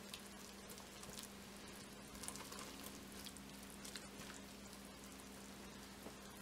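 Faint sizzling with small scattered crackles from sliced mushrooms frying in butter with garlic and thyme as they are stirred in the pot, over a steady low hum.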